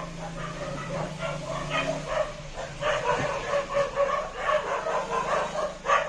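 Motorcycle engine of a kulong-kulong running at low speed as it pulls up, a steady low hum, with a dog barking in short repeated yelps over it from about two seconds in.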